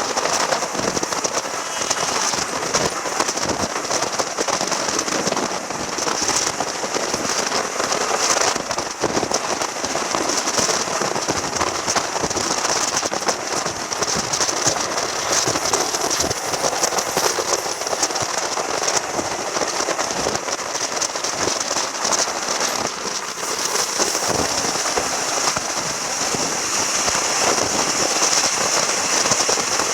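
Steam-hauled passenger train running along the track: a steady dense crackle and hiss of wheels on rails.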